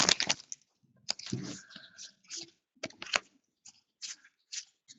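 Crinkling of a trading-card pack wrapper, ending just after the start. Then soft, scattered clicks and rustles of cardboard cards being handled and flipped through.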